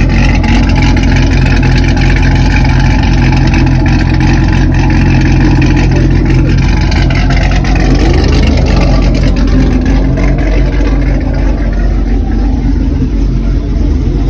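A car engine running loud and steady at close range, a deep rumble that holds one pitch, with a few brief pitch glides around the middle.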